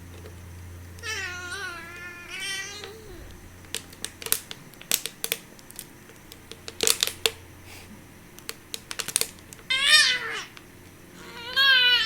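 A baby's short, high-pitched squeals and coos, with a run of sharp taps and clicks in the middle from the baby handling and knocking a feeding bottle.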